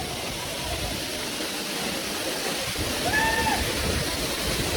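Steady rushing of a waterfall, with a short rising-and-falling call or voice about three seconds in.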